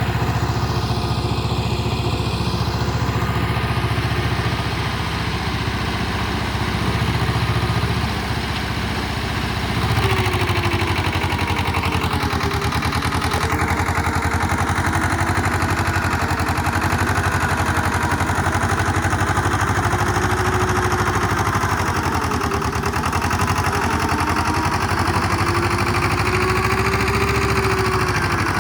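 Tractor diesel engine running steadily while working a rotavator through flooded paddy mud. The sound gets a little louder about ten seconds in, and a wavering whine joins it from then on.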